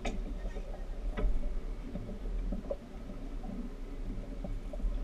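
Steady low rumble of a speedboat under way, with a sharp knock right at the start and another about a second in.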